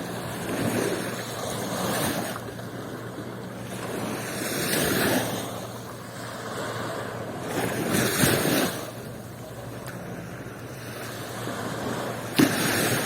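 Sea waves breaking and washing onto a beach, the rush swelling and fading every few seconds. A single sharp knock near the end.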